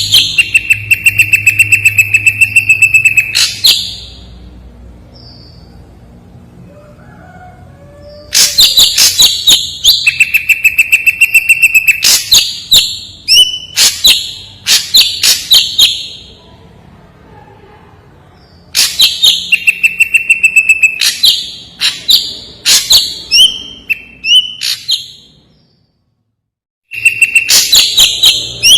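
Ashy drongo singing loud phrases of rapid, clipped clicking notes over a held whistle, followed by sharp whistled and chattering notes. The phrases are separated by pauses of a few seconds.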